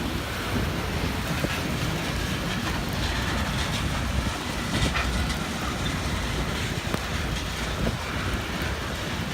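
Loaded granite freight train rolling along the track: a steady low rumble of the cars with a few faint wheel clicks. Wind noise hits the microphone.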